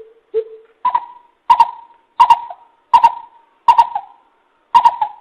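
Greater coucal calling: a run of about eight short, deep hoots, about two-thirds of a second apart. The first few are lower, then the notes step up in pitch.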